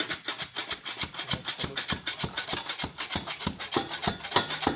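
Damp cement and quarry-dust mix being tamped into a block mold: rapid, steady gritty strokes, several a second, as the mix is compacted tight.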